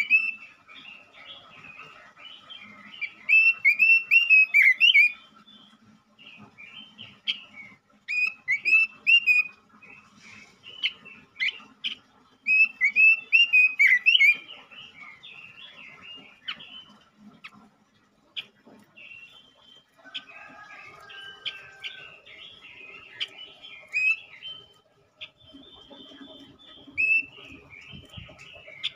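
Male Pekin robin (red-billed leiothrix) singing in loud bursts of quick, rising and falling warbled notes, with softer chattering phrases between them and in the second half; this is the energetic 'gacor' song used as a lure recording to set off other males.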